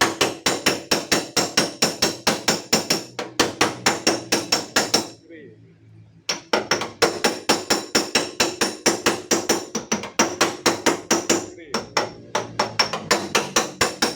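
Hammer tapping rapidly on a Daihatsu Xenia's steel tailgate panel to beat out a dent, about five blows a second, each with a metallic ring. The tapping stops for about a second some five seconds in, then resumes at the same pace.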